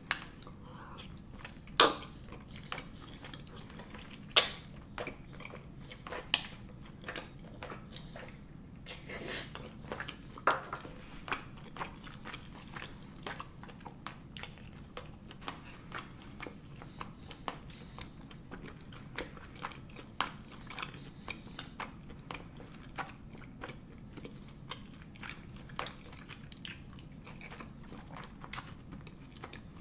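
Close-miked chewing of chewy rice cakes in spicy sauce (tteokbokki): a steady run of soft, wet mouth clicks and smacks. A few louder sharp clicks stand out in the first ten seconds.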